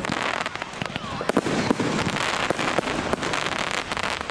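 Fireworks display: a rapid, irregular run of sharp bangs from shells bursting, over continuous crackling.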